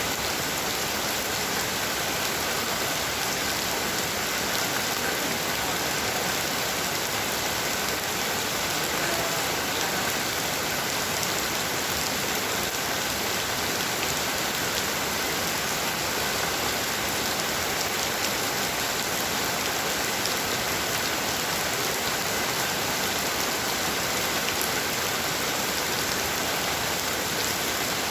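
Heavy rain falling steadily, a dense even hiss of drops on surfaces with fine individual drop ticks.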